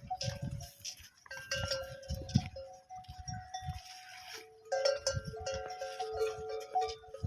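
Livestock bells ringing and clanking irregularly among a herd, with several pitches overlapping.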